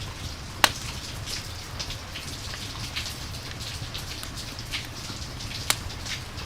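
Rain and campfire ambience: a steady hiss of rain, with scattered sharp pops and crackles, two of them louder, one early and one near the end.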